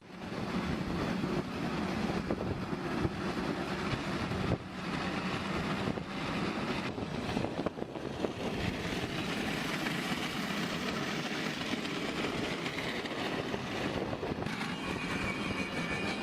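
Steady road and engine noise of a moving vehicle.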